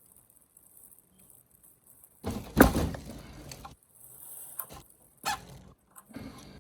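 A socket wrench working on a Lexus ES350's cartridge oil filter housing. There is one loud clank about two and a half seconds in, then a few lighter knocks and scrapes.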